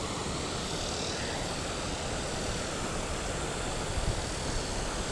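Steady rushing noise with a couple of faint knocks about four seconds in.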